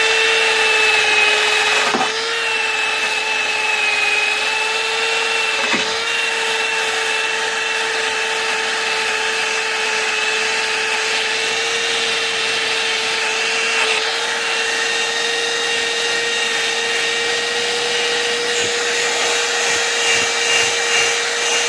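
Electric power tool running steadily while stripping paint, a loud constant whine over a grinding hiss, with brief dips about two and six seconds in.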